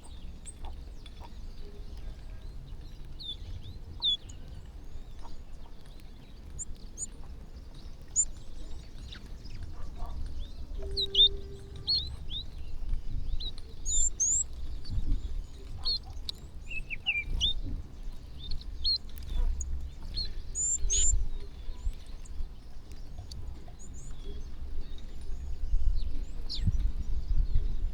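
Many small birds giving short, scattered chirps while they feed, over a steady low rumble.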